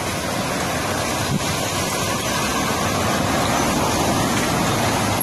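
Heavy rain in a windy storm: a loud, steady rushing that grows slightly stronger.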